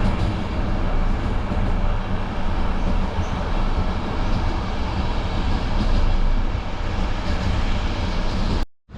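BDZ passenger train running, a steady noise of wheels on rails with most of its weight in the low end.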